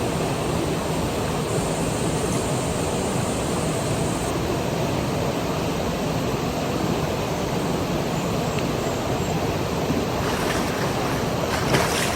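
Steady rush of moving water, an even roaring noise that does not change, with one brief knock near the end.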